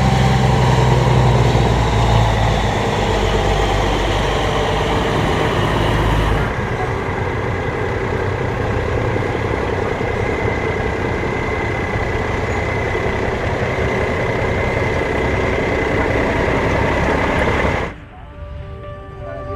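Truck engine running, with the sound changing abruptly about six seconds in and dropping off sharply near the end.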